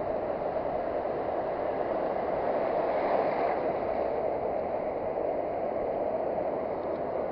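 Surf washing onto a sandy beach in a steady rush, with a wave swelling a little louder about three seconds in.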